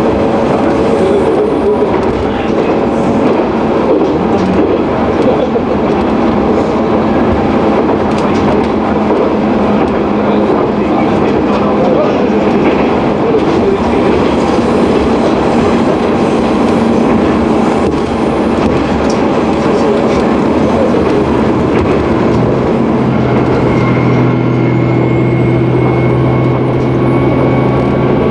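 Cabin noise inside a moving MR-600 diesel railcar: steady running noise of the wheels on the rails and the underfloor engine. Near the end a steady low hum and a thin high whine that rises and then holds come in over it.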